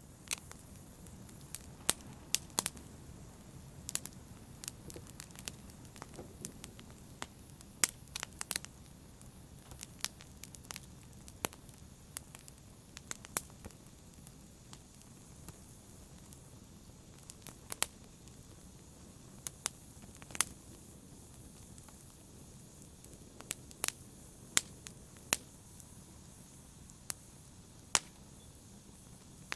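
Wood fire burning in a fireplace: a steady low rumble of flames with irregular sharp crackles and pops, roughly one a second.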